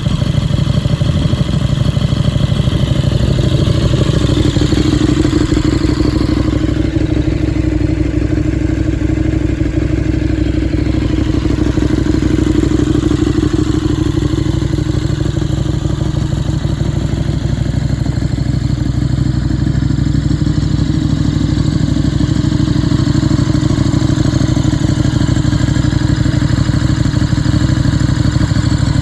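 KTM 1290 Super Duke R's 1301 cc V-twin engine idling steadily.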